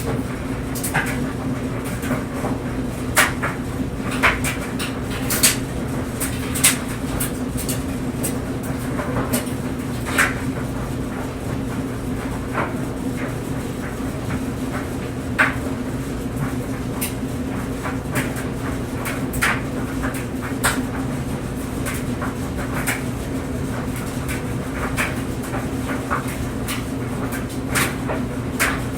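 Clothes dryer running, with a steady hum from the motor and drum. Over it come irregular light knocks and clicks as the clothes tumble and drop inside the drum.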